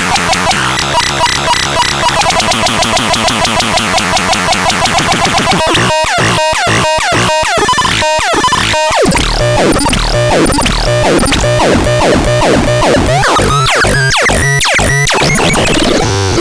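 Electronic tones from the TADRALAN NT 202 stepping through different sound patterns: first a fast pulsing warble, then a run of sharp chirps about two a second, then overlapping rising and falling sweeps.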